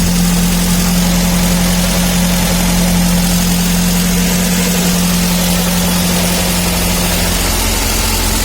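Petrol engine idling steadily while it warms up, just after a cold start. A strong steady hum in it weakens about seven and a half seconds in.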